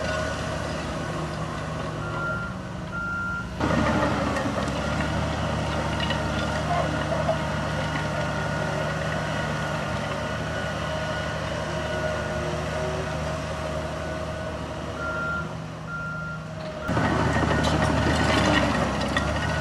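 Heavy diesel construction machinery running, with a reversing alarm beeping twice, then twice again later. The engine sound jumps louder a few seconds in and again near the end.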